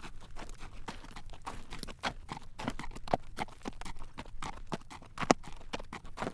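A horse's hooves clip-clopping at a walk on a road while it draws a carriage: a steady, uneven run of hard knocks, several a second.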